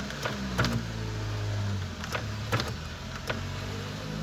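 Electric motor of a 2015 Mercedes C-Class sunroof mechanism running with a steady hum, driving the roof parts during testing in the repair, with a few sharp clicks.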